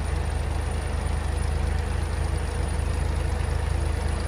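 Heavy vehicle engine running steadily, a low drone with a rapid even pulse.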